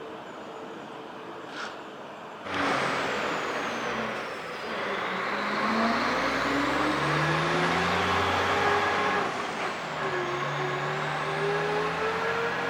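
A train pulling through the station, starting suddenly about two and a half seconds in: its motors give a whine of several tones that rise in pitch, dip briefly about ten seconds in, then rise again over the rumble of the wheels on the track.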